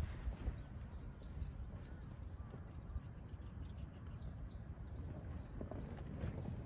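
Steady low wind rumble on the microphone in strong wind, with many short, high, falling chirps scattered through it from small birds.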